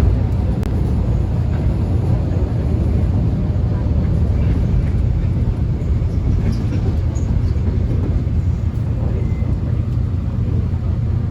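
Subway train interior while running: a steady, loud low rumble of wheels on rail and traction motors, with a few faint ticks and rattles higher up.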